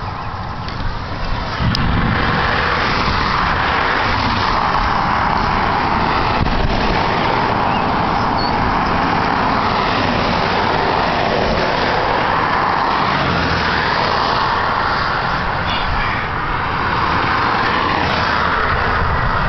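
Steady rushing of storm rain and wind on a car, heard from inside, over a low rumble; it swells about two seconds in and holds.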